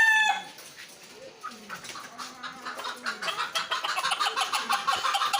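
A rooster's crow trails off at the start, then a pigeon coos low. From about halfway in, hungry chickens cluck in rapid, dense repeated calls that grow louder.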